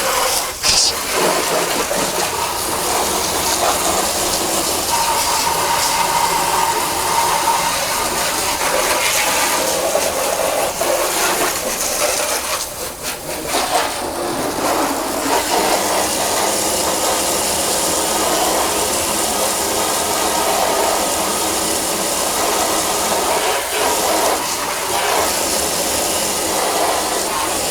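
A steady, loud spray of water hitting a car's bodywork during a wash, with a short letup about twelve to fourteen seconds in.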